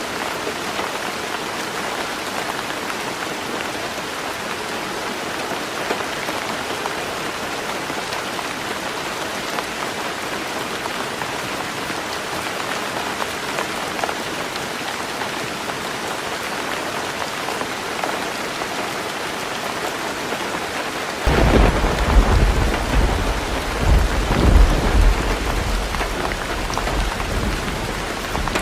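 Heavy rain drumming steadily on a tin roof. Late on, thunder breaks in suddenly and rumbles for several seconds, swelling twice before easing back under the rain.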